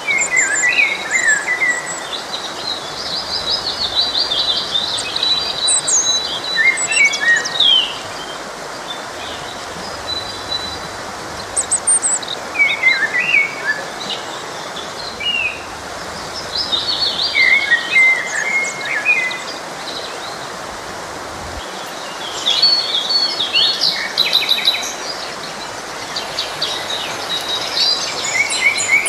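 Several songbirds chirping and trilling in short phrases, one after another, over the steady rush of a flowing forest stream.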